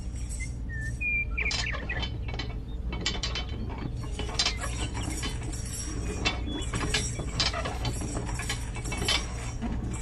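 Irregular mechanical clicking and ratcheting, like small gears and pawls, over a steady low hum, with a couple of short chirps about a second in.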